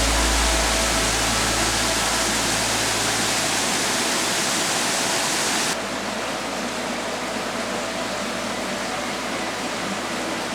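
Steady rushing of a mountain stream's flowing water, with the tail of background music fading out in the first seconds. About halfway the hiss suddenly drops in the high end and the water goes on a little quieter.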